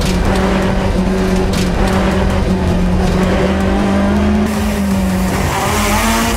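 Rally car engine running hard at high revs, heard from inside the cabin, its pitch holding high and wavering slightly as the driver works the throttle. A hiss builds over the last two seconds.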